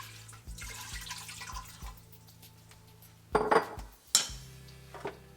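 Water being poured into a pressure cooker pot of rinsed dal, followed by two short metallic clanks a little after three seconds and just after four seconds in.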